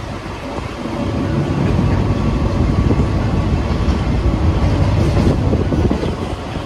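A moving passenger train heard from inside the coach at an open window or doorway: a steady rumble and rattle of the wheels running on the track, growing louder about a second in.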